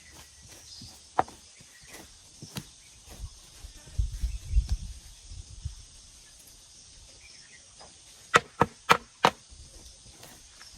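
Scattered knocks of a garden tool chopping at the ground, with low thuds about four seconds in and four sharp strikes in quick succession near the end. A faint insect hum runs behind.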